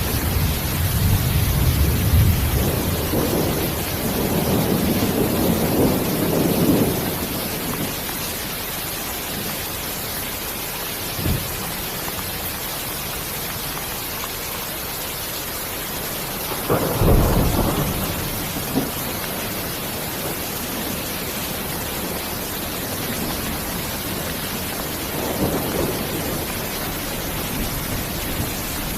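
Thunderstorm: steady rain hissing with rolling thunder through the first several seconds. A short sharp crack comes about eleven seconds in, a louder thunderclap at about seventeen seconds, and a softer rumble near the end.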